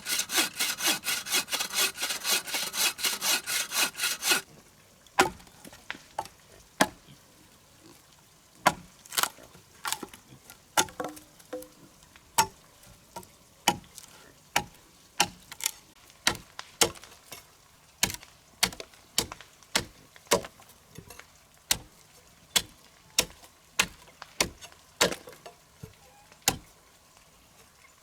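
A hand saw cutting through wood with quick, even strokes, stopping about four seconds in. Then a string of sharp, irregular knocks on wood, about one or two a second.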